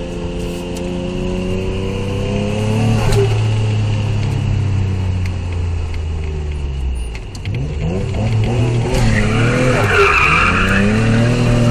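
Heard from inside the cabin, a Nissan Cefiro A31's swapped-in RB26DETT twin-turbo straight-six revs up hard, holds, then eases off. It then revs up and down repeatedly as the car is thrown sideways in a drift, with the tyres squealing about nine seconds in.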